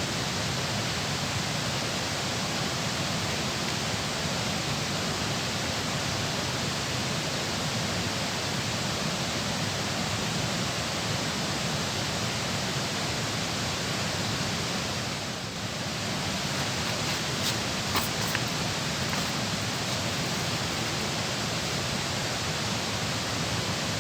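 Steady rush of water pouring through a dam, an even noise that barely changes; a few faint light clicks come a little after the middle.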